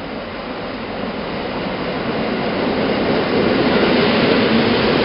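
Older electric multiple-unit train built by ZNTK Mińsk Mazowiecki pulling into the platform and passing close by, its running noise growing steadily louder, then holding loud for the last second or so as the carriages roll past.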